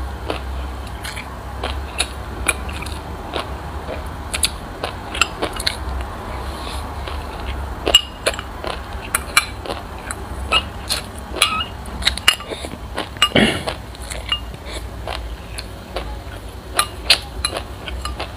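Close-miked chewing of crunchy sesame seeds and passion fruit: frequent, irregular sharp crunches and clicks, with a spoon now and then clinking against a glass bowl. A louder crunch comes about two thirds of the way in.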